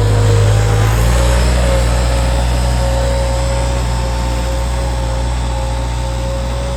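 An engine running steadily, with a steady low drone that shifts slightly about a second in.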